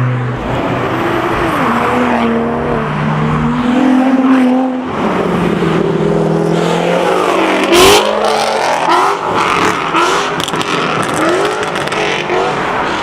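Car engines revving hard, their pitch climbing and falling in repeated blips, with one sharp bang about eight seconds in.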